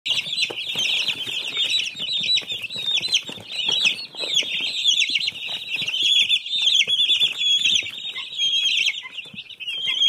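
A crowd of small birds chirping and peeping all at once, a dense, high, overlapping chatter that never lets up, with short clicks and rustles of movement among them.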